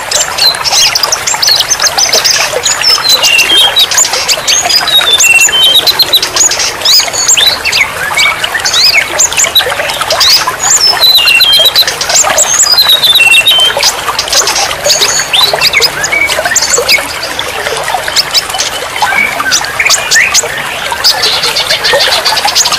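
Dense chorus of songbirds chirping and whistling in quick, overlapping phrases, over a steady hiss of trickling water.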